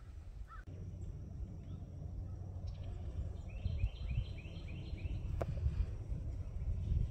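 Birds calling in open woods: a short call just after the start and a quick run of about seven repeated notes around the middle, over a steady low rumble on the microphone.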